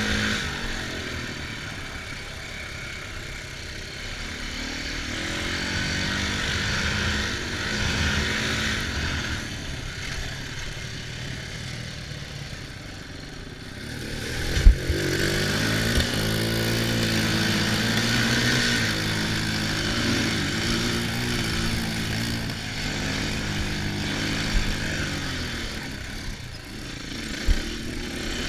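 Dirt bike engine running under riding load, its pitch rising and falling as the throttle opens and closes, with wind rushing past. Two sharp knocks stand out, one about halfway through and one near the end.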